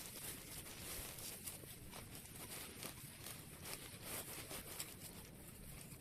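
Faint rustling with many small scattered crackles and clicks, as of leaf litter and soil being disturbed.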